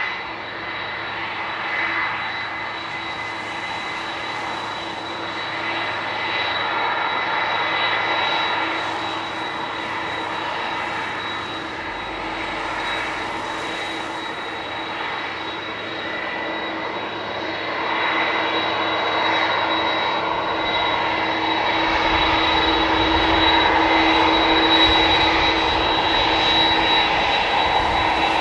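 Airbus A330-300 jet engines running with a steady whine as the airliner rolls out after landing, getting louder in the last third.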